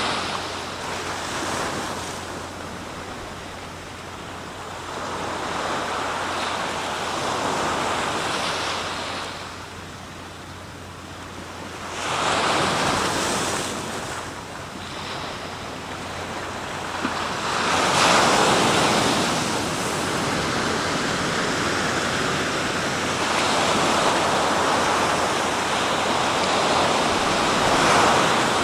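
East Sea surf breaking on the shore, the wash of the waves swelling and fading about every five or six seconds.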